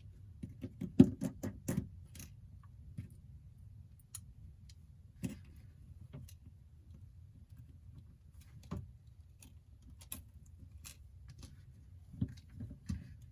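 Small, scattered clicks and taps of metal tweezers and tiny screws against phone parts, with a quick run of clicks in the first two seconds, the loudest about a second in, and single ticks after that. A faint, steady low hum runs underneath.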